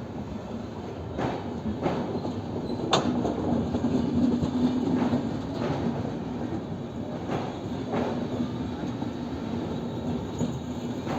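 Train running on the rails with a steady rumble and hum, its wheels clacking over rail joints in pairs every couple of seconds.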